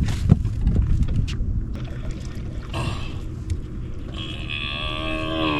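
Steady low rumble of wind and water on a boat, with a few sharp clicks in the first second and a half. Near the end comes a drawn-out voice-like sound that slides down in pitch.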